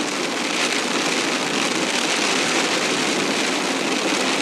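Steady hiss of rain falling, with no breaks or distinct impacts.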